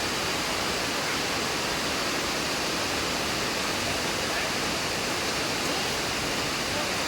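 Heavy rain falling, a steady, even hiss with no change through the stretch.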